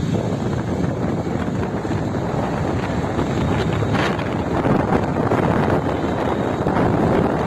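Wind buffeting the microphone over the steady road noise of a moving vehicle, with a few brief knocks about four seconds in.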